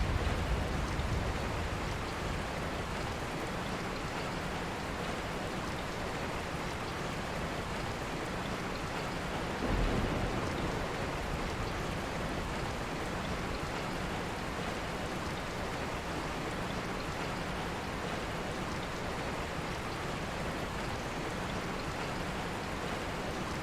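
Steady rain falling, an even hiss with no single drops standing out, and a brief louder low swell about ten seconds in.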